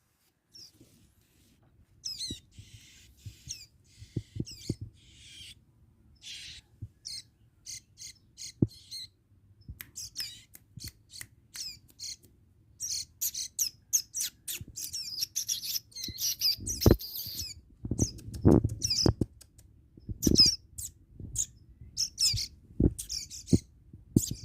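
Small songbird chirping in quick, high calls and short twittering runs. There are several low thumps in the second half.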